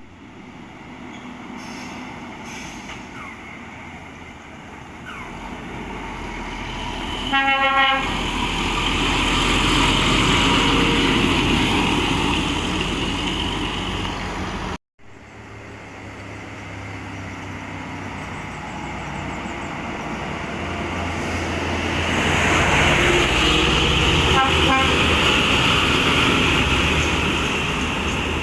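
Heavy truck running on a hill road, its sound growing louder twice as it nears. There is a short horn toot about seven seconds in.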